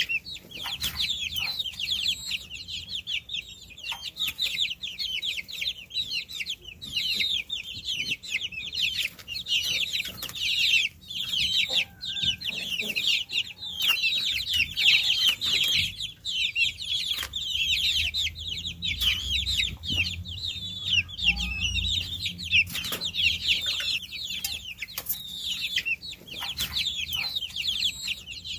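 A brood of baby chicks cheeping continuously: many high, quick, overlapping peeps, with a few short taps and knocks among them.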